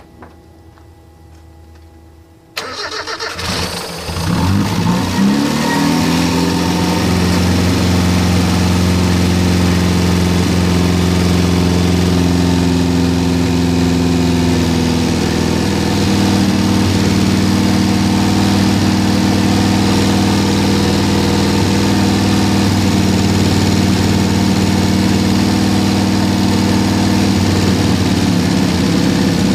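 1974 Toyota Corolla's four-cylinder engine, dormant since the early 1990s and fed from a fuel bottle, cranks and catches about two and a half seconds in. It picks up speed over a few seconds, then runs steadily.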